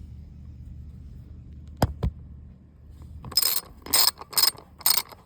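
Hand socket ratchet tightening a carburetor mount bolt on a lawn mower engine, its pawl clicking in about four quick bursts, one for each back stroke, starting a bit past halfway. Two sharp metal clinks come shortly before.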